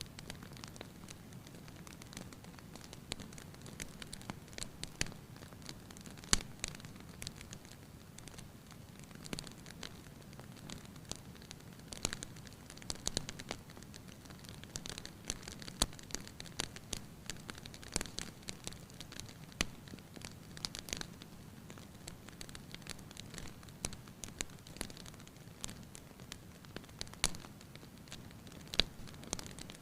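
Wood fire crackling in a fireplace: irregular pops and snaps over a low steady rush.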